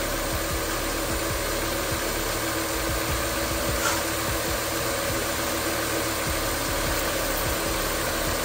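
2015 Nissan Versa's 1.6-litre four-cylinder engine idling steadily, its serpentine belt running over a newly fitted idler pulley with no belt squeal: the squeal from the worn old pulley is gone.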